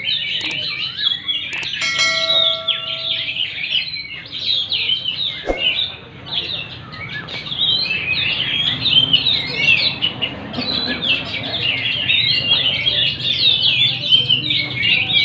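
Many caged songbirds singing at once, a dense overlapping chorus of quick chirps and trills with no let-up. A short ringing tone sounds for about a second, about two seconds in.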